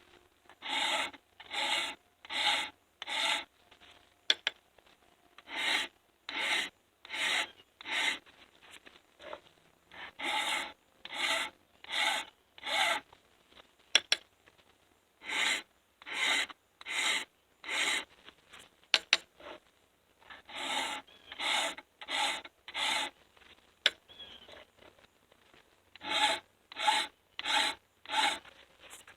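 A hand file rasping over the drags (depth gauges) of a chainsaw milling chain in sets of four even strokes, about one stroke every three-quarters of a second, with a short pause between sets. Sharp light taps come between a couple of the sets.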